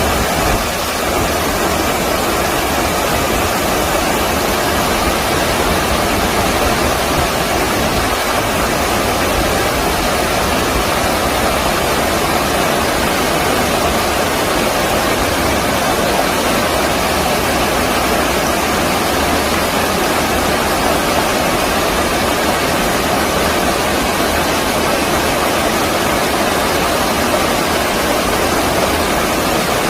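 Stream water rushing over its bed in a loud, steady, unbroken rush.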